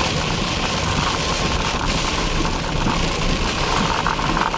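Car running down the road, heard from inside the cabin: steady engine and road noise with a low hum.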